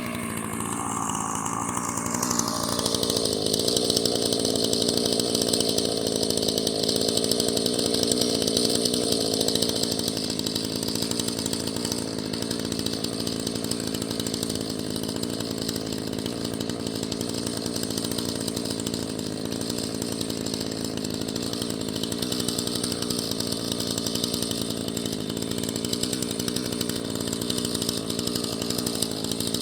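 Husqvarna chainsaw revving up over the first couple of seconds, then running steadily at high speed while cutting wood into firewood lengths, a little louder for several seconds before easing slightly.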